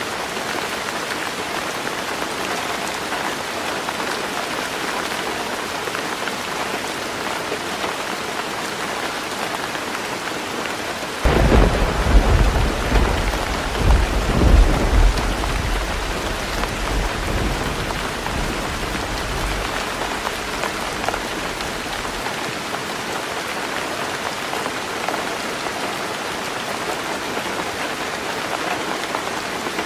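Heavy rain falling steadily on a roof. About a third of the way in, a loud rumble of thunder breaks in suddenly, swells twice, and fades away over several seconds.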